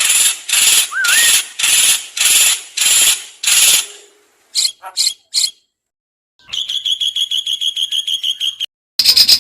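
Recorded songbird calls from a masteran bird-song training track: about eight harsh, hissing notes at roughly two a second, then three short chips, then a rapid dry rattling trill lasting about two seconds, and another loud rattle starting near the end.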